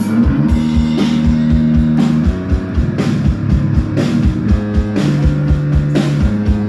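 Live rock band playing an instrumental passage: guitars and bass holding low notes over drums, with the kick drum beating about three times a second.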